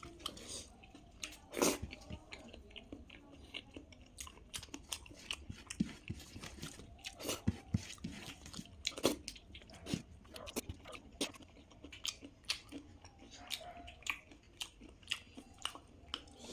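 Close-up mouth sounds of eating: wet chewing and biting with frequent small crunches and smacks.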